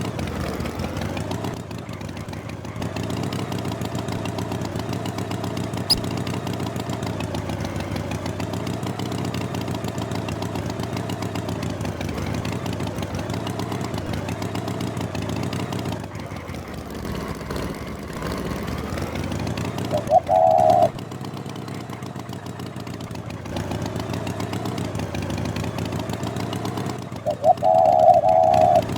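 An engine running steadily with a slightly wavering pitch, broken by two short loud tones, one about two-thirds of the way in and a longer one near the end.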